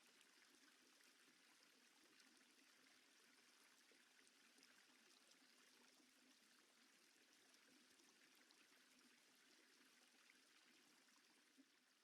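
Near silence: only a very faint, steady hiss, with one small tick near the end.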